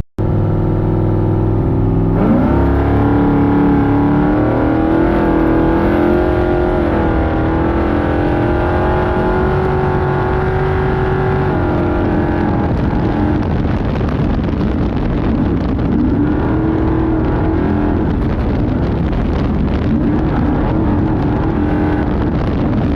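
Off-road trophy truck engine at low revs, then revving up sharply about two seconds in and holding high revs with a wavering pitch. About halfway through the pitch drops and the sound turns rougher, with the engine note rising and falling as it is driven hard.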